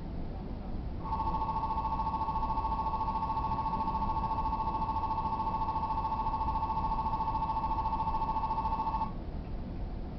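Station departure bell, an electric bell ringing with a fast, even trill for about eight seconds. It starts and stops abruptly over the low rumble of the standing train, and signals that the doors are about to close.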